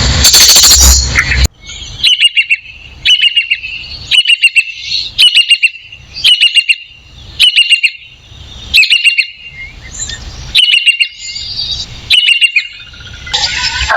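A loud, harsh noisy sound cuts off abruptly about a second and a half in. Then a wild African bird calls repeatedly, a short burst of quick chirping notes about once a second.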